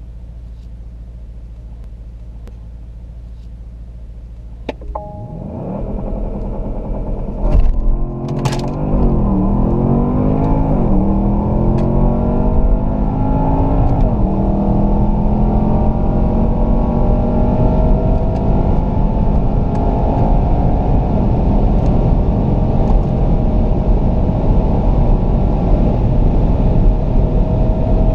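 2017 Porsche Panamera Turbo's twin-turbo V8 idling, then accelerating hard from a standstill. The engine pitch climbs and falls back at three quick upshifts, then settles into a long, slowly rising drone as speed builds. A few sharp clicks come around the launch.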